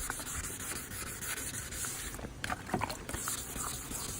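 Water-soaked 1000-grit sandpaper rubbed by hand back and forth over a plastic headlight lens, a steady scratchy rasp that briefly lets up about two seconds in. It is the wet sanding that takes off the yellowed, oxidised surface of the lens.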